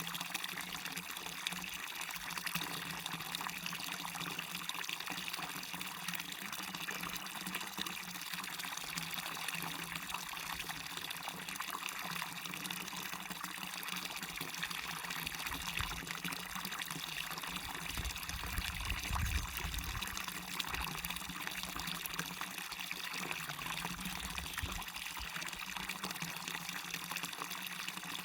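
Waterfall running steadily, an even splashing hiss of falling water. A faint low rumble swells briefly about two-thirds of the way through.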